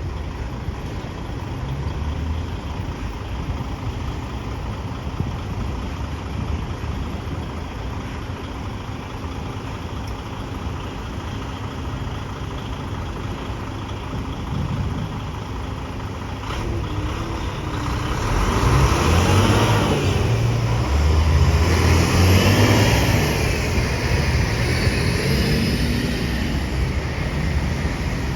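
Garbage truck engine running with a steady low rumble, growing louder about two-thirds of the way through, when a high whine rises and falls several times.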